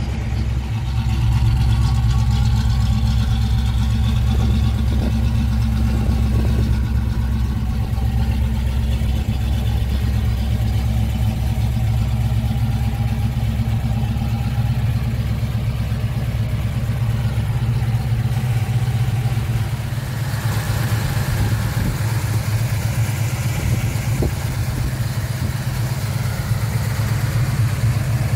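1969 Pontiac GTO's rebuilt 400 V8, fitted with headers and dual exhaust, idling steadily with a low, even exhaust note.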